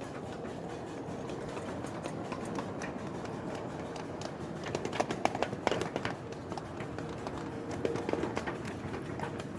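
Miniature ride-on train running on its track, with a quick series of clicks and knocks about five seconds in and a few more near eight seconds.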